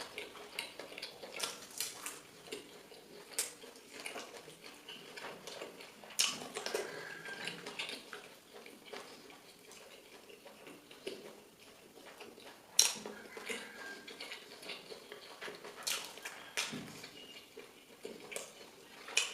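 Someone eating a meal, with scattered clinks and taps of plates and dishes and sharp clicks throughout.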